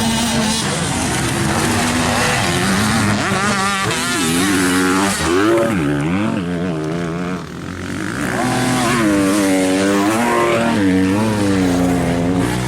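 Motocross bikes racing, their engines revving up and down over and over as the riders open and close the throttle, with more than one bike heard at once.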